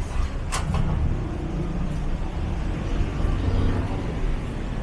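City street traffic: a steady low rumble of motor vehicles passing, with a sharp click about half a second in.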